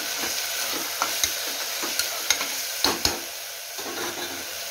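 Pigeon peas, onion and tomato sizzling steadily in hot oil in an aluminium pressure cooker as they are stirred, the stirring utensil scraping and knocking against the pot's metal side a few times, loudest about three seconds in.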